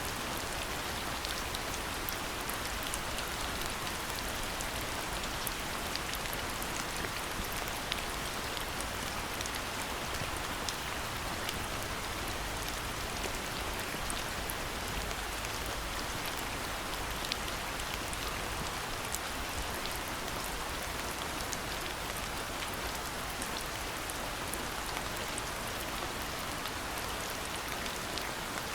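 Steady rain falling, with many small drops pattering and ticking on surfaces.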